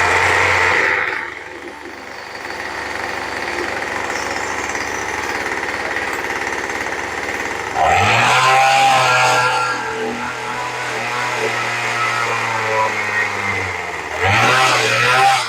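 Small rototiller gasoline engine running on a rebuilt carburetor: it revs briefly, settles to a lower idle, then is revved up again about halfway through and once more near the end. The idle is slightly off, which the owner thinks needs a small adjustment.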